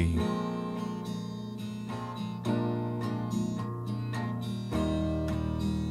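Music: an acoustic guitar strumming and picking held chords over low bass notes, with no singing.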